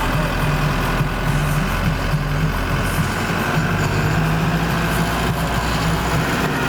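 A motor vehicle's engine running steadily, a low hum that wavers slightly in pitch.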